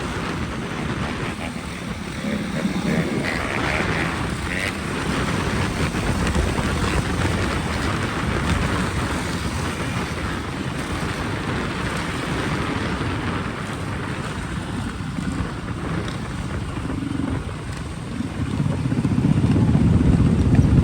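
Wind rushing over the microphone over the rumble of a moving vehicle, growing louder near the end.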